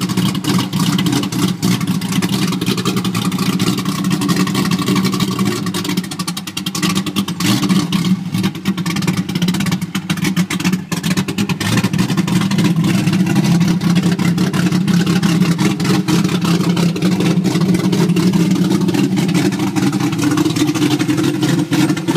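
Cammed LS6 5.7-litre V8 of a Corvette Z06 running at a steady idle through open exhaust cutouts, with a choppy, uneven pulse to the exhaust.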